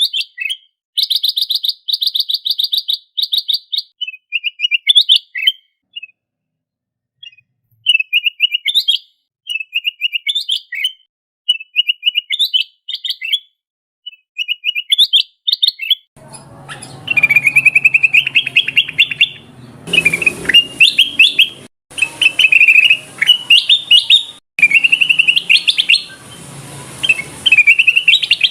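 Kutilang emas, a bulbul, singing short whistled phrases over and over, about one every one to two seconds, with a fast rattling trill near the start. This is a lure call for attracting the bird. About halfway through, a low hum of background noise joins under the song.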